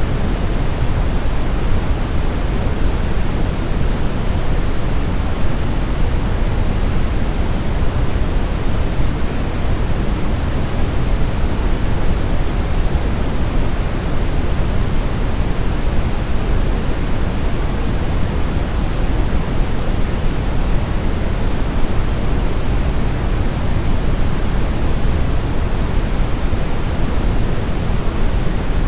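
Steady brown noise: a constant, even rushing hiss weighted heavily toward the low end, with no changes.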